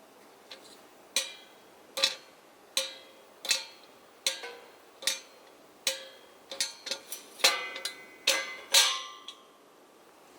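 Metal clinking, as of a metal camping kettle's lid or handle being handled. There are sharp taps, each with a brief ringing tone, about one every 0.7 seconds at first, then a quicker cluster of clinks in the last few seconds.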